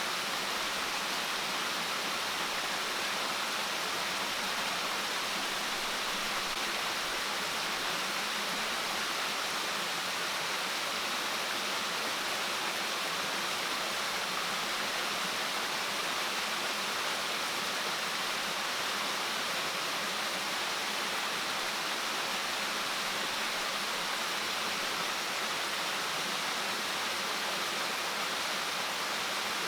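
Steady, unbroken rush of water, a hiss spread high across the range with no single drops or knocks standing out.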